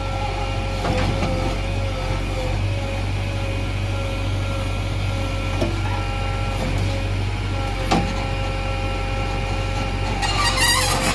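JCB 3DX backhoe loader's diesel engine running steadily under working load, with a steady hydraulic whine over a low rumble. A couple of short knocks partway through, and a brief high warbling sound near the end.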